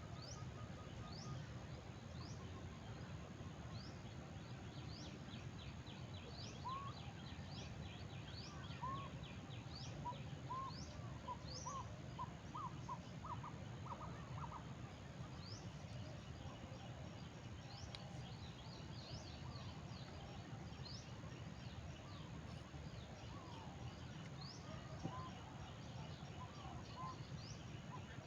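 Several wild birds calling: a high rising note repeated about once a second, quick trills, and a run of short lower notes in the middle, over a steady low background hum.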